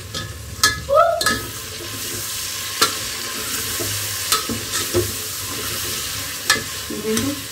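Chicken with chopped tomatoes and green chillies frying in oil in an aluminium pot, sizzling steadily, while a metal spoon stirs the mix. The spoon gives a few sharp knocks against the pot as it stirs.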